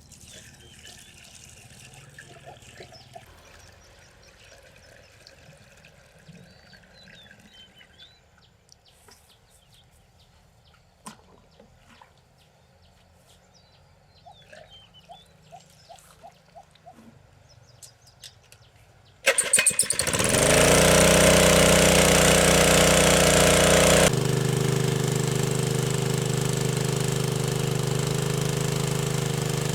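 A small engine starts up abruptly, climbs briefly in pitch, then runs steadily and loudly, a little lower in level a few seconds later. Before it there is only a faint background with light clicks and a few short bird chirps.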